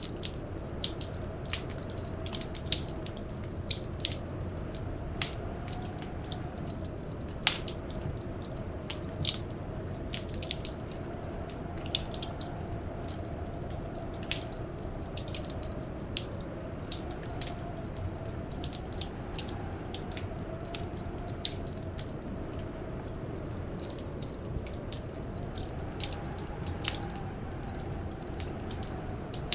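Wood fire crackling in a fireplace: irregular sharp pops and snaps over a steady low rumble of the flames. Under it a faint wind howl slowly rises and falls.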